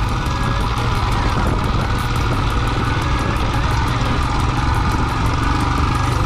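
Single-cylinder Royal Enfield motorcycle engine running steadily while the bike is ridden, heard from on the motorcycle; the level and pace stay even throughout.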